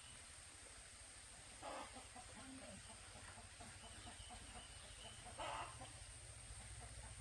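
Chickens clucking softly, a rapid run of low clucks, with two louder, sharper calls: one about two seconds in and one about two-thirds of the way through.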